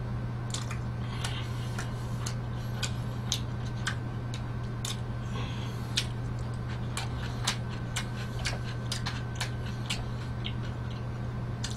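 A man chewing and eating pizza close to the microphone: irregular wet mouth clicks and smacks, several a second, over a steady low hum.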